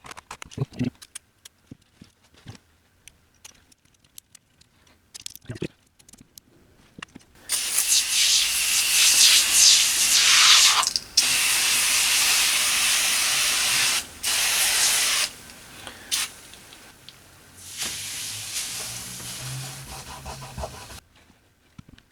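A few light clicks and rubbing sounds, then, about seven seconds in, several long, loud hissing blasts from a pressurised nozzle with short breaks between them, the last ones quieter. The hissing is part of cleaning the radio's front.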